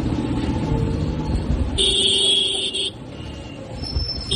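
TVS Apache motorcycle engine running under way in traffic. A vehicle horn sounds for about a second in the middle of the clip. After that the engine sound drops off as the bike eases off, and a short horn toot comes at the end.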